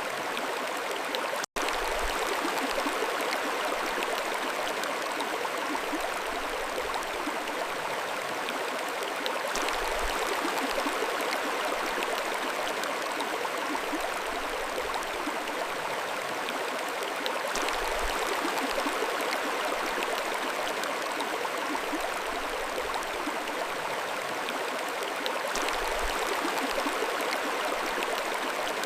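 Mountain stream flowing over rocks: a steady, even rush and babble of water. A momentary dropout breaks it about a second and a half in.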